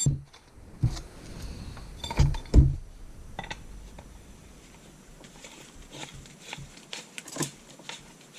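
A few dull knocks and clunks: one at the start, one about a second in and two a little after two seconds, followed by faint scattered clicks of parts being handled.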